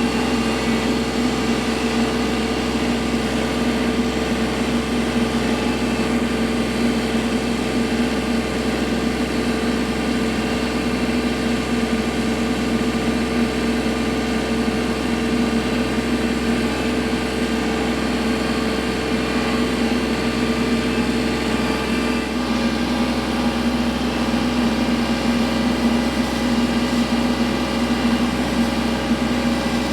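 Kubota L3301 tractor's three-cylinder diesel engine running steadily; a higher steady tone in the sound drops out about two-thirds of the way through.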